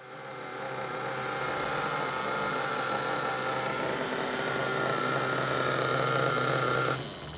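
HSP 21CXP 3.5cc (.21) two-stroke nitro glow engine of a 1/8 RC monster truck idling steadily during its break-in, an even buzz with a high whine. It swells up over the first second or two and cuts off near the end.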